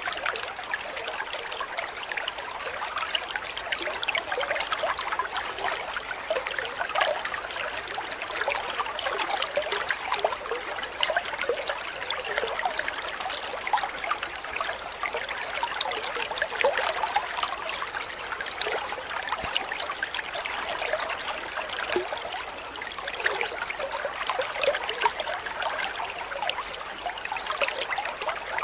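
Steady trickling, babbling water, like a small stream running over stones.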